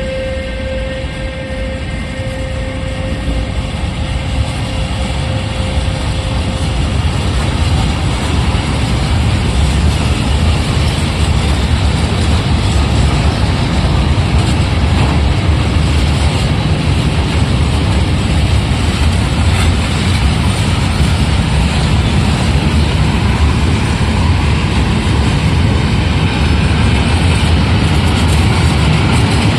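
Freight train rolling past, a steady rumble of wheels on rail that grows louder over the first ten seconds and then holds. A thin steady tone fades out in the first few seconds.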